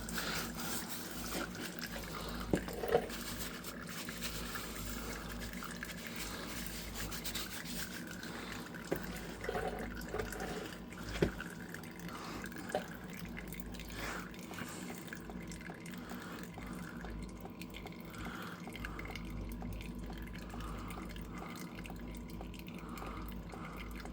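Engine oil draining from the open drain-plug hole of a 2002 Buick Century's oil pan into a drain pan: a steady pouring trickle of liquid. A few short sharp clicks and knocks are heard along the way.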